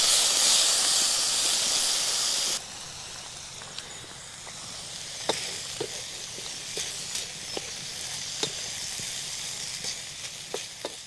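Food sizzling loudly in a frying pan over a wood fire, cut off sharply after about two and a half seconds; then a quieter wood fire crackling, with scattered sharp pops.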